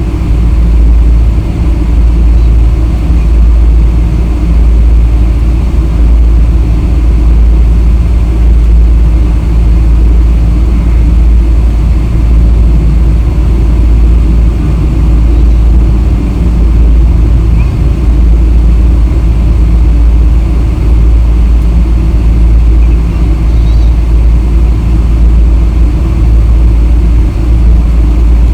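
Steady, loud low rumble of a Boeing 777-300 airliner heard from inside the cabin, engines and airframe noise running without change.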